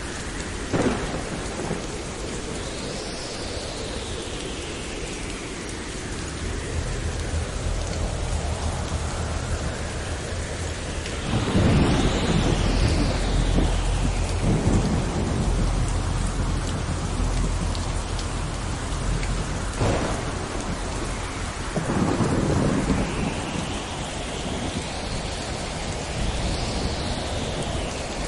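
Thunderstorm: steady heavy rain with thunder. A sharp crack comes about a second in. A long rolling rumble builds through the middle, and another crack about two-thirds of the way through is followed by a shorter rumble.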